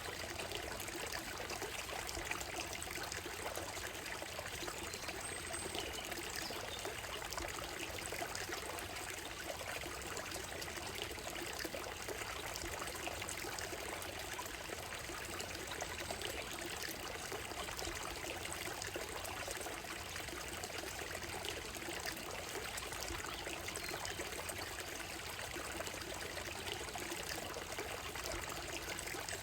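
Shallow stream running steadily over a gravel and stone bed, an even, unbroken burble and trickle of water.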